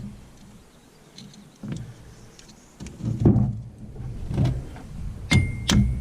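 Hammer blows on a side-by-side's wheel hub as it is driven onto its bearing: about five knocks, the loudest about three seconds in, and the last two near the end sharp metal-on-metal strikes that ring.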